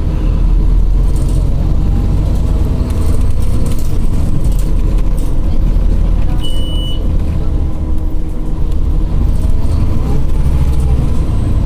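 Scania OmniCity city bus under way, heard from inside: a steady low engine and road rumble. A single short high beep sounds about six and a half seconds in.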